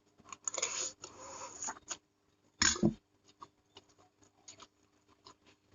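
Close-up mouth sounds of someone eating fried instant noodles: a noisy slurp-like stretch, a short low throat sound with falling pitch about three seconds in, then many small wet clicks of chewing.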